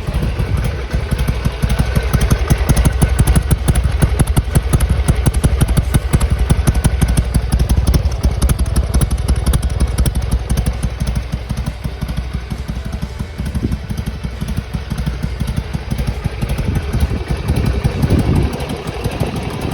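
Harley-Davidson Sportster XL883R's air-cooled V-twin idling while it warms up after a cold start, a steady, rapid run of exhaust pulses.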